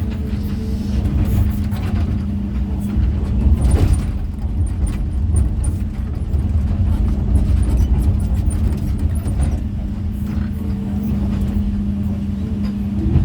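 Excavator's diesel engine running steadily with a low rumble and a held hum, with a few short knocks scattered through it.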